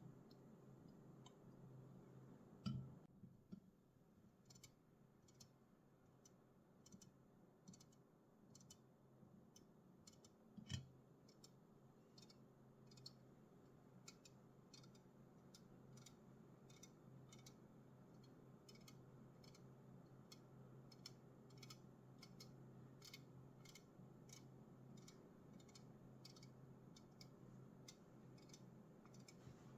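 Light tapping on an aluminium Red Bull can: quick metallic clicks, irregular at first and then a steadier run of about two taps a second. Two heavier knocks come, one about three seconds in and one about eleven seconds in.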